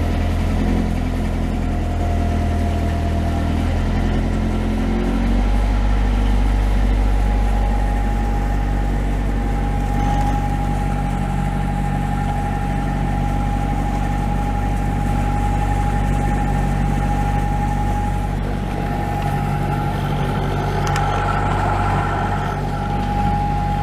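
Perkins 4-108 four-cylinder marine diesel running steadily out of gear, warming up after a start following a long layup; its note shifts about five seconds in, and a steady whine sits above it from about seven seconds on.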